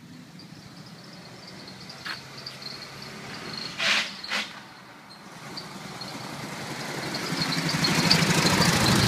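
1951 Chevrolet pickup truck running: a steady low engine hum, a click about two seconds in and two short loud hissy bursts about four seconds in, then engine and road noise swelling over the last few seconds.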